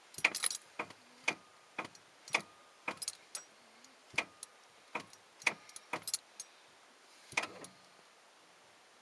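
A dozen or so sharp clicks, about two a second with uneven gaps and no engine running, from a 1991 Ford Ranger's ignition as the key is turned and the engine won't crank. It is the clicking of a weak or dead battery, with keys jangling on the ring.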